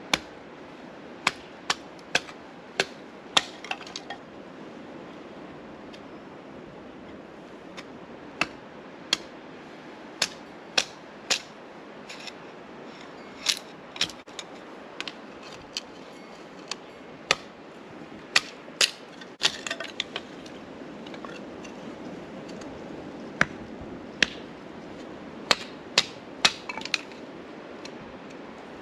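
Kindling being split into smaller sticks: a blade strikes the wood again and again, making sharp cracks and knocks at an irregular pace, some coming in quick clusters.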